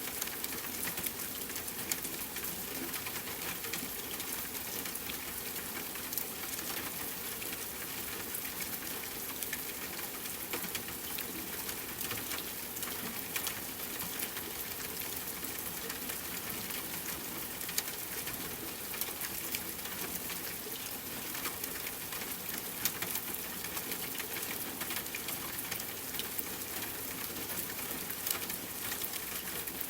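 Steady rainfall blended with a crackling wood fire: a continuous even hiss dotted with scattered sharp pops and crackles.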